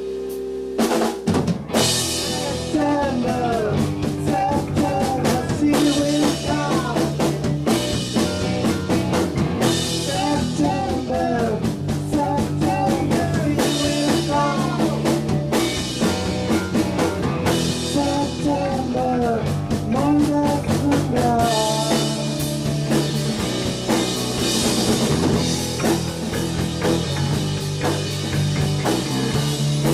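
Rock band playing, with the drum kit (bass drum and snare) coming in about a second in over a held chord, and melodic lines bending in pitch above a steady beat.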